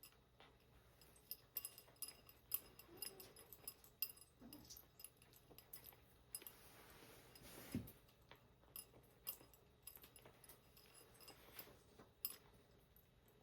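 Faint cleaning of a cat litter box: cat litter being scooped and sifted, giving scattered small clicks and gritty rattles, with a longer scraping swish about seven seconds in that ends in a dull knock.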